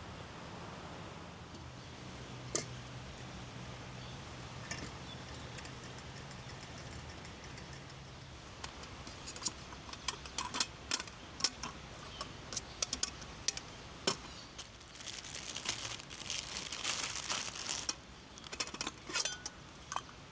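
Small hard objects being handled: scattered clinks and taps begin partway through, with a few seconds of crinkling noise near the end.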